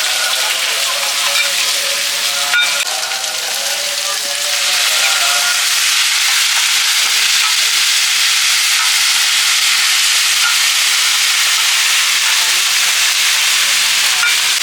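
Seafood omelette frying in hot oil, a steady loud sizzle that swells about four and a half seconds in and then holds. A single clack sounds about two and a half seconds in.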